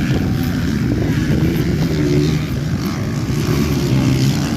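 Motocross bike engines racing on the track, their revs rising and falling as riders work through the course.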